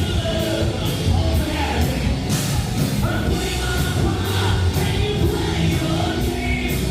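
Live rock tribute band playing, with a sung lead vocal over drums keeping a steady beat.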